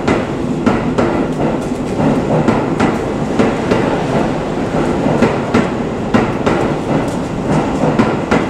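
Electric train running past on the track: a steady rumble of wheels on rail with a continual run of irregular sharp clacks as the wheels cross rail joints.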